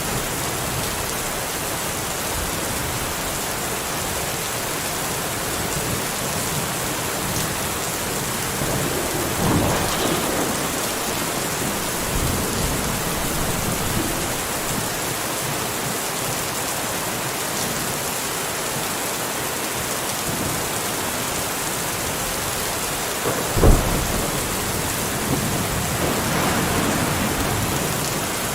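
Steady heavy rain with thunder: a rumble swells about a third of the way in, a sudden sharp crack comes late on, and another swell follows near the end.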